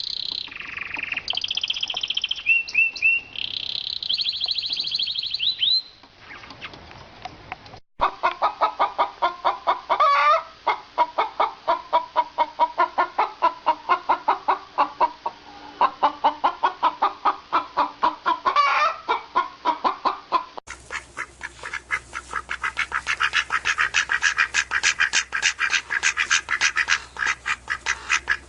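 A series of bird calls from different recordings joined by hard cuts. First come high chirps and trills for about six seconds. After a short quieter gap there is a long run of rapid, repeated lower calls. Near the end it cuts to faster, higher-pitched repeated calls.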